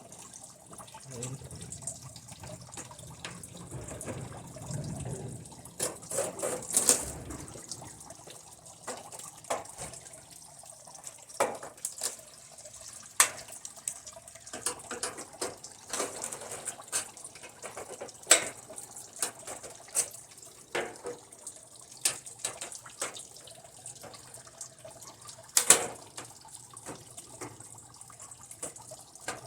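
Irregular sharp clicks and knocks of hand tools and plastic and metal parts being handled as a TV is taken apart, over a faint steady hiss.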